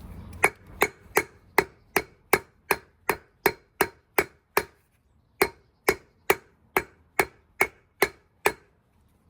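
Hammer striking the old wheel bearing used as a driver to press a new wheel bearing into its housing, in steady ringing metal blows about two or three a second. Two runs of blows with a short pause between them, as the bearing is seated.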